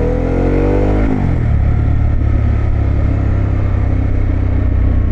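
Harley-Davidson Pan America's V-twin engine through a Vance & Hines exhaust, rising in pitch as it accelerates. About a second in the pitch drops abruptly, and the engine then runs steadily at lower revs.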